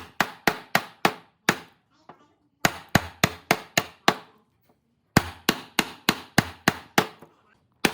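Hammer blows in three quick runs of about four strikes a second, with short pauses between the runs.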